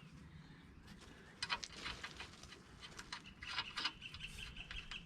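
Faint scattered metallic clicks and taps of a steel nut being fitted onto the suspension's lower control arm bolt by hand, starting about a second and a half in.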